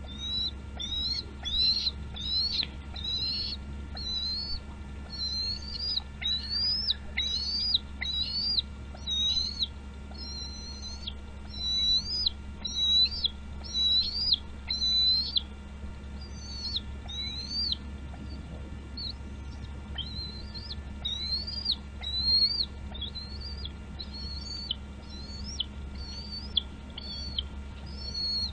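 A bird calling over and over in high, thin chirps, each a quick note that falls in pitch, about one or two a second, with a short lull a little past the middle.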